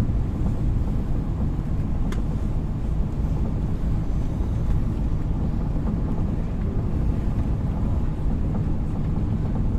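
Steady low rumble of jet aircraft engines heard from a distance, mixed with wind buffeting the microphone.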